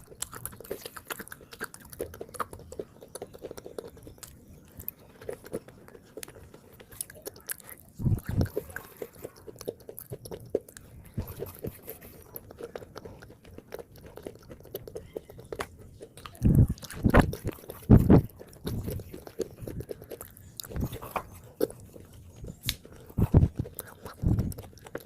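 Someone chewing and biting soaked khawa clay close to the microphone: wet crunching and mouth clicks. There are louder bites about eight seconds in and a cluster of them past the halfway mark.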